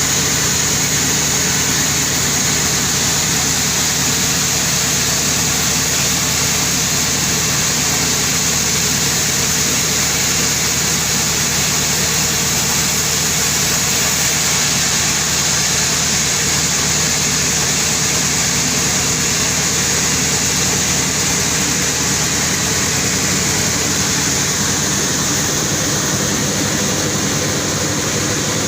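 Sawmill machinery running steadily: an even engine drone with a constant high hiss over it.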